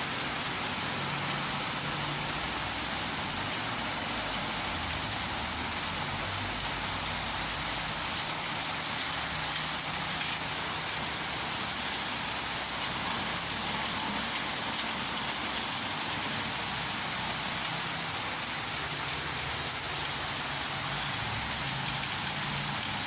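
Heavy rain falling in a steady, even hiss, with a low rumble of road traffic underneath.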